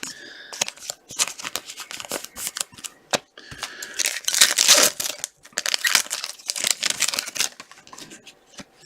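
Trading cards being handled and flipped through: a run of quick clicks and rustles as card stock slides and snaps against card stock.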